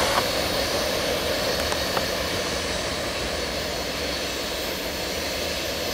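Steady rumbling noise of a CSX grain train rolling past, slowly fading.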